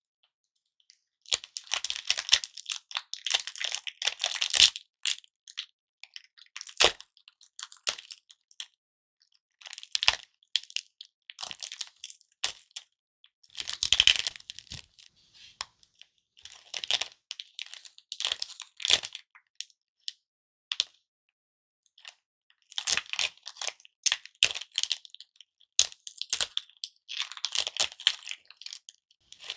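Lollipops handled close to the microphone: bursts of crackling and sharp clicks, a second or two each, with short pauses between.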